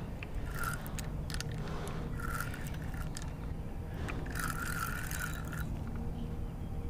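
Fishing reel whirring in three bursts, short, short and then longer, as line is wound in or pulled off while a hooked catfish is played. Under it is a steady low rumble.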